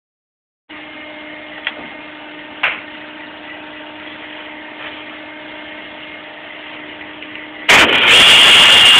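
Faint steady hum with two light clicks, then near the end a table saw starts suddenly and runs loud with a steady high whine.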